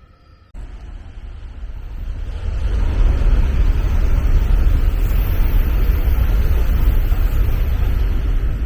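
A train passing close by: a loud, low rumble that cuts in about half a second in, builds over the next two seconds and holds, with wind buffeting the microphone.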